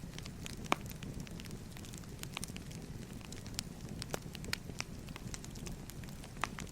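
Wood fire crackling: irregular sharp pops and snaps, several a second, over a steady low rumble of burning logs.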